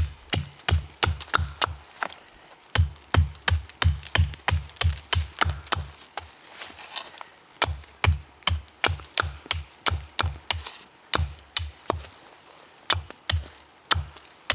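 Wood being chopped with a blade: quick, repeated strikes of about three a second, in runs broken by short pauses, each a sharp knock with a low thud.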